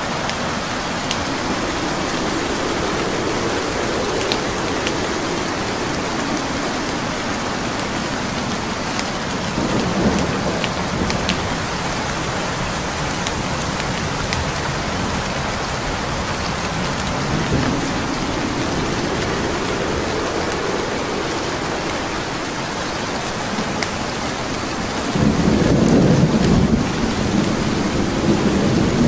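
Steady rain, with the sharp pops and snaps of a crackling wood fire scattered through it. Low rolls of thunder swell up a few times, the loudest near the end.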